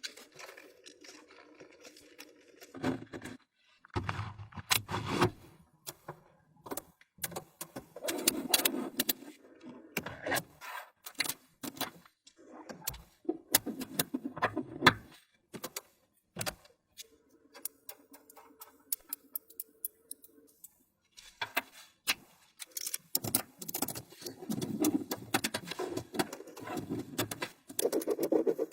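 Small magnetic balls clicking and rattling against each other as they are snapped together and pulled apart, in irregular clusters of sharp clicks with short pauses between.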